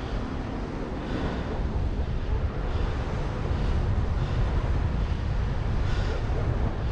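Wind rushing over the microphone in an unpowered glide, a steady low rumble with the engine stopped after an in-flight engine failure.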